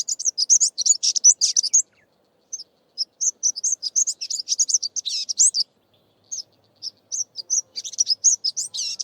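Greater double-collared sunbird singing: a fast, high-pitched twittering song of rapid chips and trills, in three long runs with short breaks about two and six seconds in.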